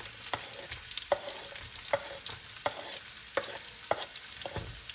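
Chopped onions sizzling in hot coconut oil in a pan, with a utensil knocking against the pan about every three-quarters of a second as they are stirred.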